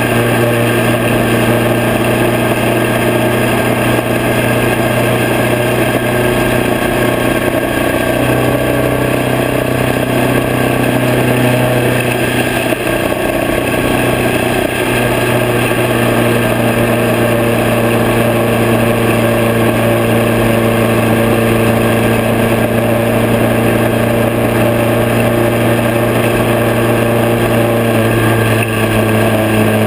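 Harley-Davidson Night Train V-twin running steadily at highway cruising speed, with a broad rush of wind and road noise over the bike-mounted camera. The engine note shifts slightly near the end.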